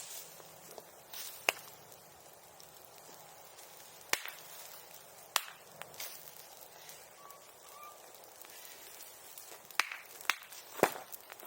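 A bonfire of bamboo and brush burning, with about half a dozen sharp loud cracks scattered through it as bamboo pops in the heat, like firecrackers.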